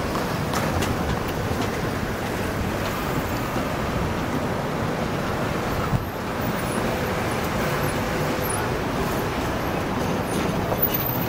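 Steady rolling noise from the wagons of a double-stack container train moving away on the rails. Partway through, road cars drive across the level crossing behind it.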